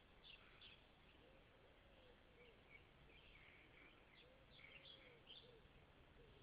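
Faint birdsong: scattered high chirps, plus a lower arching call that repeats every second or two, over a faint steady low hum.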